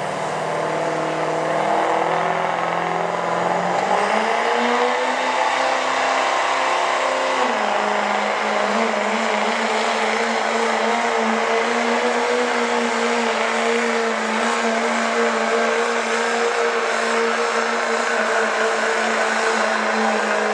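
Chevrolet 4x4 diesel pickup pulling a weight-transfer sled at full throttle: the engine climbs in pitch in steps over the first four seconds, then holds a steady high pitch.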